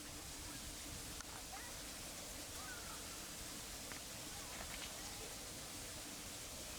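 Faint bird calls, a scattering of short chirps and sliding whistles, over a steady background hiss and low rumble.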